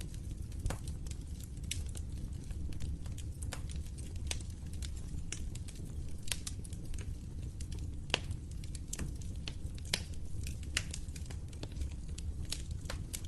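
Wood fire crackling in a fireplace: irregular sharp pops and snaps over a steady low rumble of flames, with a few louder pops along the way.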